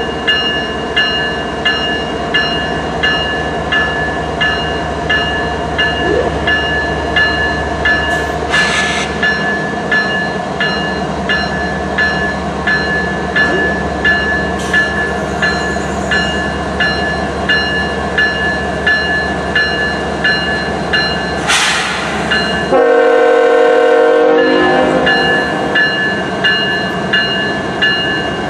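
Lead CN GE ES44AC diesel locomotives rumbling past slowly, with the locomotive bell ringing steadily at about three strokes every two seconds. Two brief metallic clatters come from the train. About three-quarters of the way through, the air horn sounds once for about two seconds.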